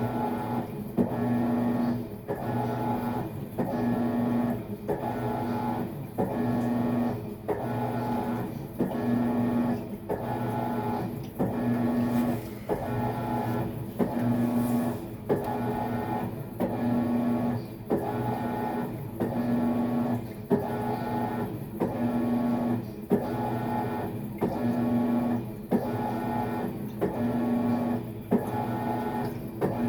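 Maytag MVWX655DW1 top-load washer agitating on its tub-clean cycle. The motor whirs in short strokes, about one every second and a bit, with a brief pause between them as the wash plate turns back and forth.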